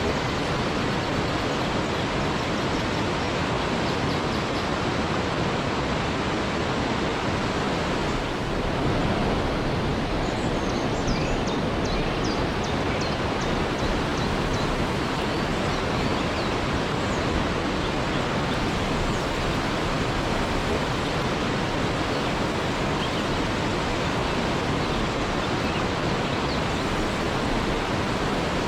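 Waterfall: a steady, dense rush of falling water, with a few faint high chirps around the middle.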